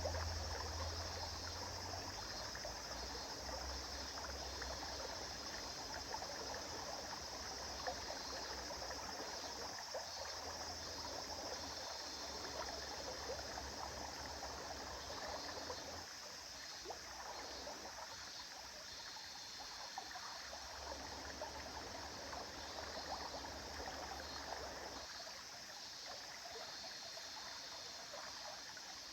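A river flowing steadily, a continuous rush of running water. A low rumble runs underneath and stops near the end.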